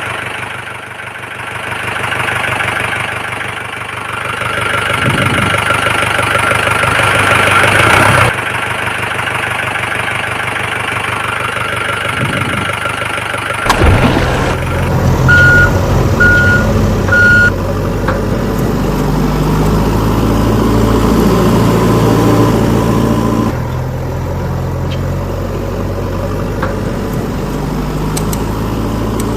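Vehicle engine running, with the sound changing sharply about halfway through, and three short beeps just after that.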